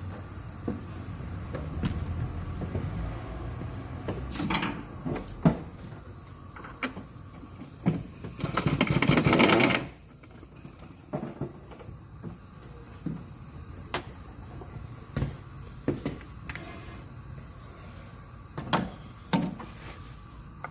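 Car engine running with a low rumble, scattered sharp clicks and knocks, and one loud rattling burst about two seconds long near the middle: the noise the owner hears from the engine as it revs.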